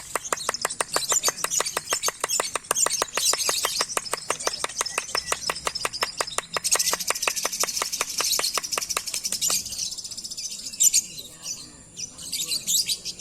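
Lovebird singing a long, rapid chattering song: an even run of sharp, high chirps at several per second. It breaks off about three-quarters of the way through into scattered chirps.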